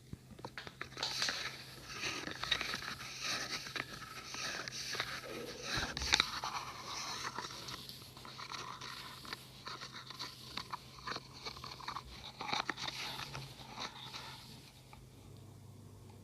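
Close-miked ASMR tapping and scratching: a dense run of crisp taps and scratches with fingernails on objects, thinning out near the end, over a faint steady low hum.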